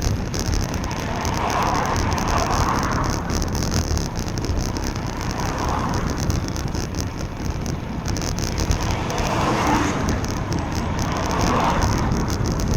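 Steady wind and road noise of a bicycle ride on wet roads, with cars passing about four times, each a swell of tyre noise that rises and fades.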